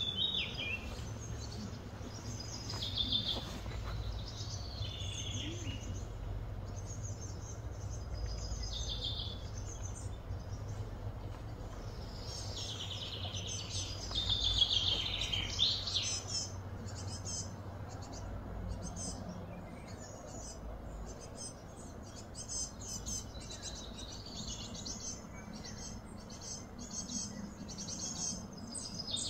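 Birds chirping and singing in short, varied phrases throughout, busiest around the middle, over a steady low background hum.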